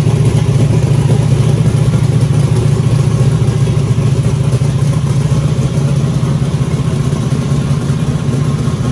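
Twin-turbocharged 7.3-litre Ford Godzilla V8 idling steadily.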